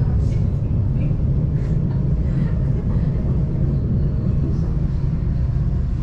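Train running with a steady low rumble and faint scattered rattles.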